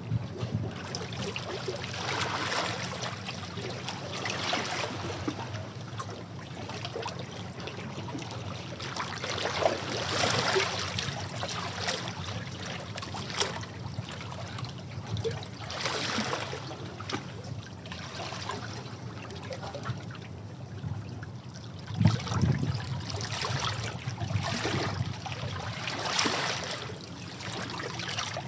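Sea waves washing over rocks: repeated surges of water every few seconds, one of the strongest about 22 seconds in, with splashing and draining water between them.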